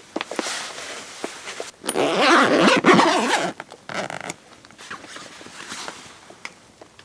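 A zipper being pulled in several strokes, with fabric rustling. The loudest pull comes a couple of seconds in.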